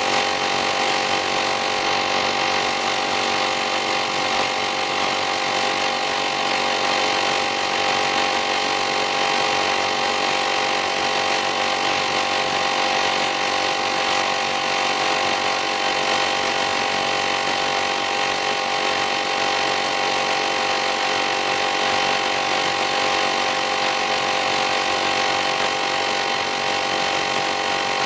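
Small electric air compressor of a portable jump starter and tire inflator running steadily, a constant motor whine over hiss.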